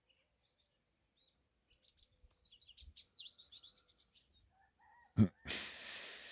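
Small wild birds chirping in a quick run of high, sweeping notes. About five seconds in comes a sharp thump, the loudest sound, followed by a second or so of hissing noise.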